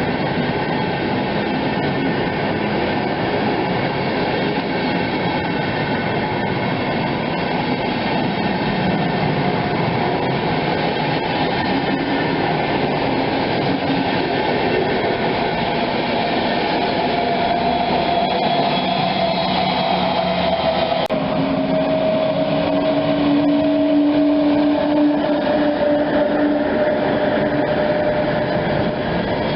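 A train rolling past with a steady, continuous noise of wheels on rails, going on for the whole stretch. About two-thirds of the way through, a thin squealing tone from the wheels joins it.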